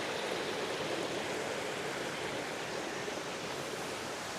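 Waterfall and stream water rushing in a steady, even hiss.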